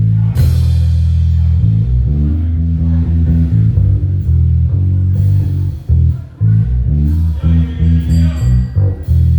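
Live band playing, with a loud bass guitar line and guitar over a drum kit; a cymbal crash about half a second in.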